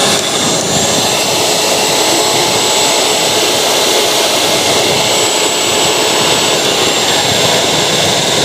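Electric mixer grinder running steadily at high speed, a loud continuous motor whine with a high-pitched tone over it.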